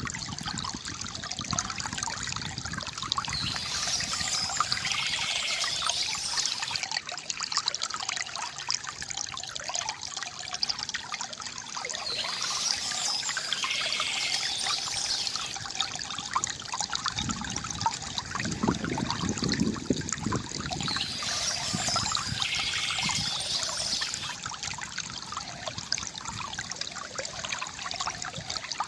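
Water trickling and splashing steadily from a bamboo fountain, with many small drips, a brighter, hissier passage about every nine seconds and a deeper gurgle about two-thirds of the way through.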